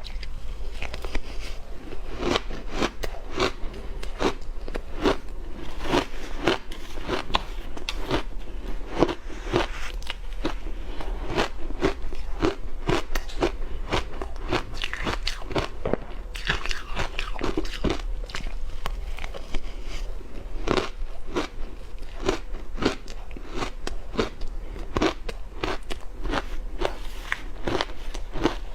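Crunchy ice being bitten and chewed close to the microphone: a steady run of crisp crunches, a couple a second.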